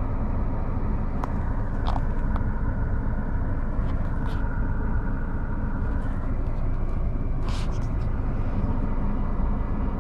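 Steady low rumble of road and engine noise heard from inside a car's cabin, with a few faint clicks scattered through it.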